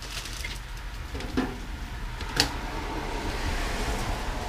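Small metal drum hardware being handled: two sharp clicks, about a second and a half and two and a half seconds in, then a rustling handling noise.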